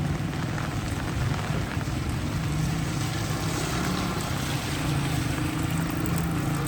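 A vehicle engine running steadily with a low hum, over an even hiss of rain and wind.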